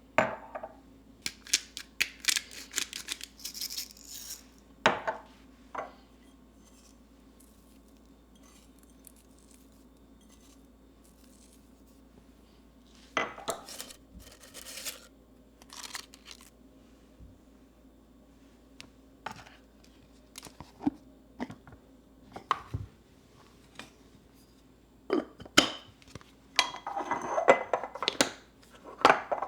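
Kitchen handling sounds: things set down with scattered knocks and clinks, and several bursts of rustling, with quiet gaps between. A faint steady hum runs underneath.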